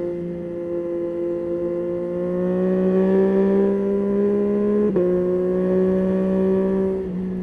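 Yamaha Tracer 9's 890 cc inline-three engine running under way, its pitch rising slowly as it accelerates, with a brief break about five seconds in before it holds steady.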